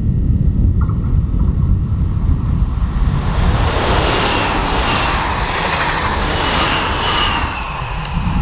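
A train passing on a mainline at speed: a rushing noise of wheels on rail swells about three seconds in, with a high, slightly falling ringing tone, and fades near the end. Wind rumbles steadily on the microphone throughout.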